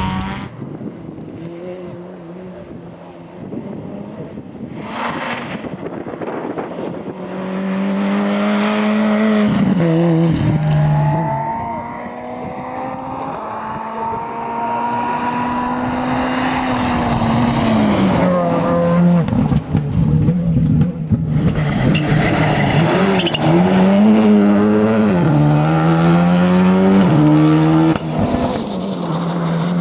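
Rally cars driven flat out past the spot one after another, engines revving high and dropping sharply at each gear change and lift, with brief tyre squeal.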